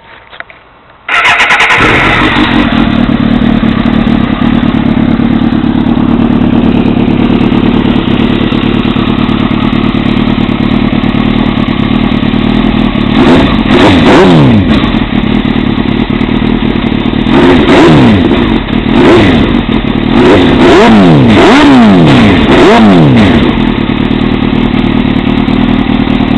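2002 Suzuki GSX-R750 inline-four motorcycle engine starting about a second in and idling loudly through a shortened, repacked RS3 carbon-fibre slip-on exhaust, then revved in a series of quick throttle blips, two or three at a time. The cut-down muffler makes the exhaust quite a bit louder.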